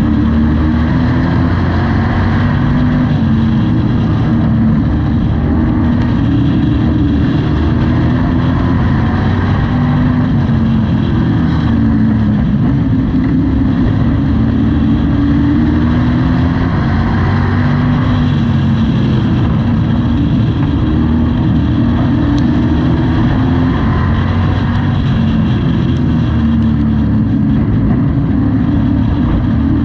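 Race truck engine at full racing load, heard from inside the cab. The engine note climbs and then drops back again and again, every few seconds, as the truck laps the short oval.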